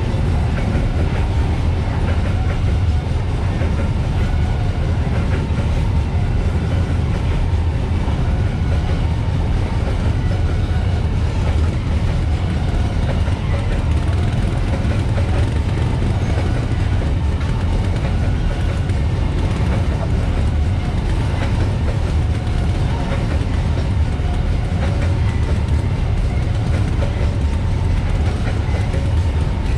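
A long freight train of open-top wagons rolls steadily past, with the wheels rumbling and clattering over the rail joints.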